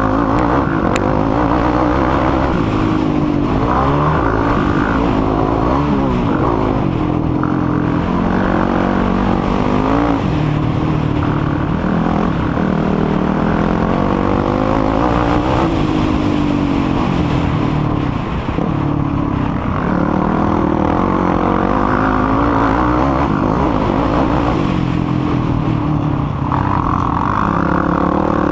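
Quad (ATV) engine racing on a motocross track, revving up and dropping back over and over as it is throttled and shifted, with a short easing-off about two-thirds of the way through.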